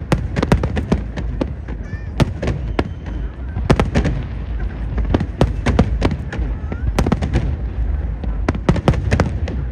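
Fireworks display: shells bursting in quick, irregular succession, several sharp bangs a second over a continuous low rumble.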